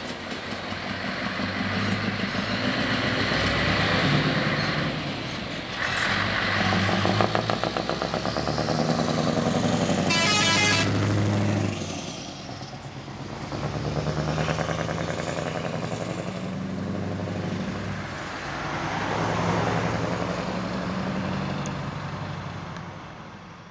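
Scania 164L 480 truck's V8 diesel pulling away and accelerating up through the gears, its note climbing and dropping back at each shift. A short air-horn blast sounds about ten seconds in, and the engine fades as the truck drives off.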